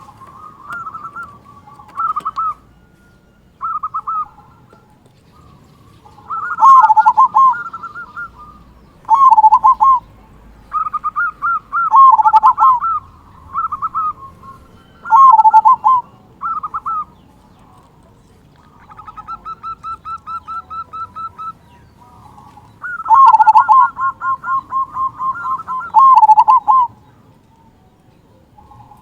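Zebra dove (perkutut) cooing: bouts of rapid, rolling coos, each a second or two long and repeated every few seconds, with the longest bout near the end. A softer, even string of quick notes comes about two-thirds of the way through.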